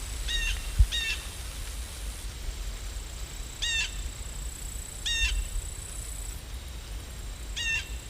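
A bird calling five times, short harsh calls spaced a second or two apart, over a steady low rumble, with a single thump about a second in.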